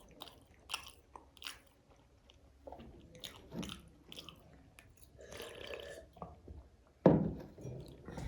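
Close-up eating sounds: food being bitten and chewed, with scattered crisp crunches. About seven seconds in comes one loud, low thud, the loudest sound here.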